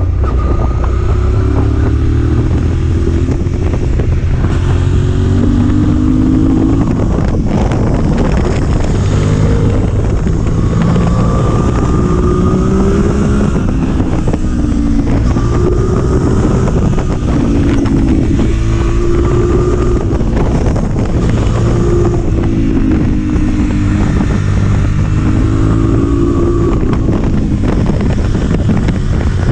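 Motorcycle engine running at speed, its revs rising and dropping back again and again as it pulls through the gears, over a steady low rumble of wind on the microphone.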